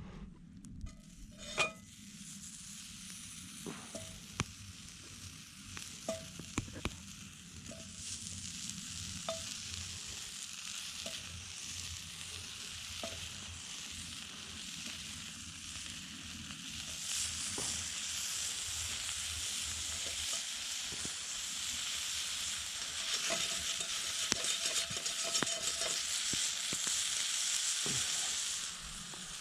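Food frying and sizzling in a pan over a campfire, the sizzle growing louder about halfway through, with scattered clicks of a utensil against the pan.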